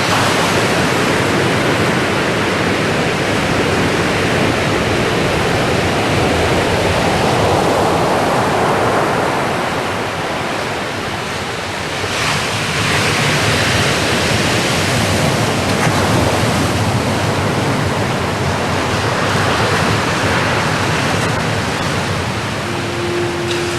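Ocean surf washing ashore, the rush of the waves swelling and easing every few seconds. A steady low tone starts near the end.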